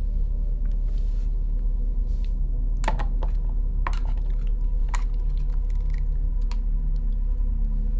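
Scattered sharp clicks and taps of a utensil against a plastic food tub and a tin can as canned food is scooped out. A low steady drone runs underneath.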